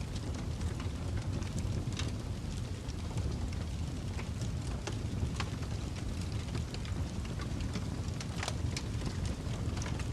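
Fire burning in a fireplace: a steady low rumble with scattered sharp crackles and pops, one louder pop late on.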